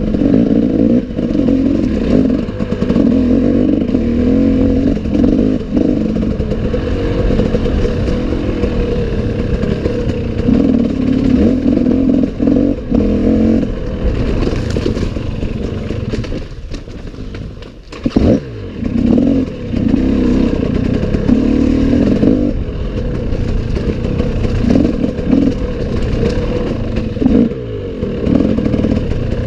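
Enduro motorcycle engine running hard and revving up and down over and over. It drops off briefly about two-thirds of the way through, then picks up again with a quick rev.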